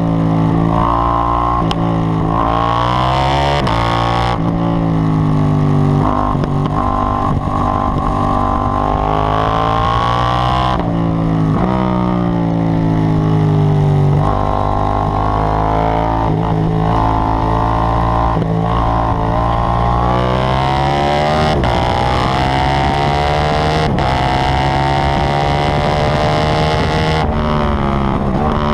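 KTM 790 Duke's parallel-twin engine at full throttle on track, its note rising steadily through each gear and dropping suddenly at each shift, then falling away under braking before building again.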